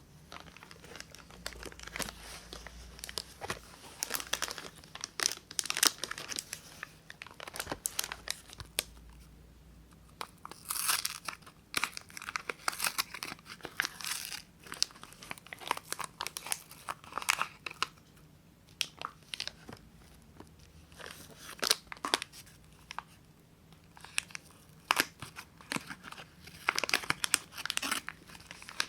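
Soap wrapper being torn open and crinkled by hand: irregular crackling and rustling with sharp ticks, coming in bursts with short pauses.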